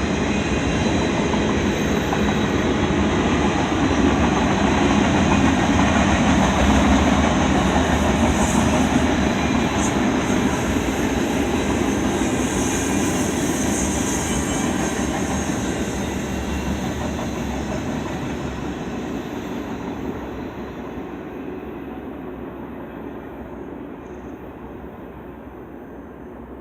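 Freight train of intermodal cars rolling past on steel rails with a continuous rumble and wheel noise. It is loudest about six seconds in, then fades steadily as the train moves away.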